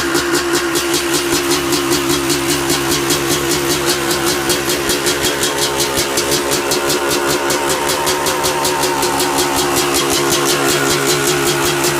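A 2003 Yamaha YZ250's single-cylinder two-stroke engine, freshly rebuilt, running steadily at idle with an even, rapid pulse, getting a little louder near the end.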